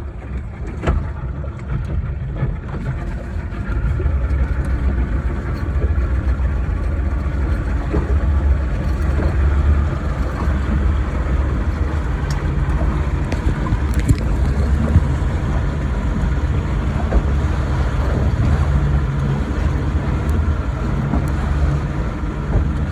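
Motorboat engine running steadily as the boat moves across the lake, growing louder about four seconds in and then holding steady.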